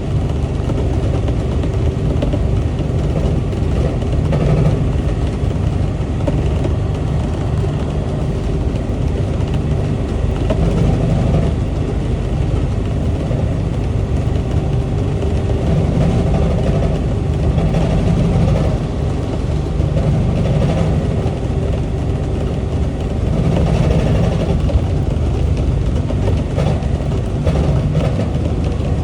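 Singapore LRT automated rubber-tyred train running along its guideway: a steady low rumble with a faint constant hum, swelling and easing slightly every few seconds.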